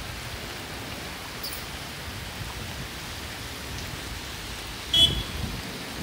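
Rain falling steadily on a street, a constant even hiss. About five seconds in there is one brief, loud, sharp sound with a short high squeak in it.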